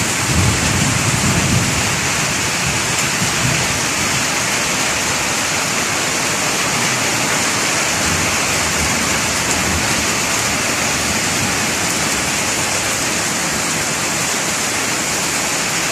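Heavy rain and hail falling steadily, a dense even hiss of drops, with a brief low rumble about a second in.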